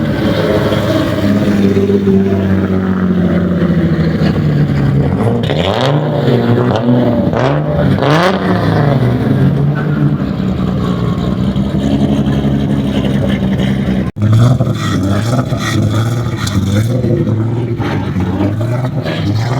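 Japanese sports car engines revving and accelerating past, with several quick rises and falls in pitch about five to nine seconds in. The sound breaks off for an instant about fourteen seconds in, then other engines carry on.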